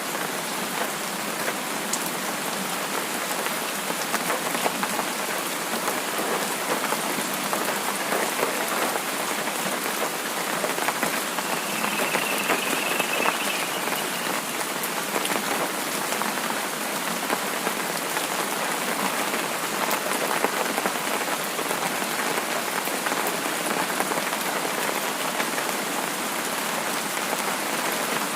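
Steady rain falling, an even hiss of rain with many small drop ticks mixed through it.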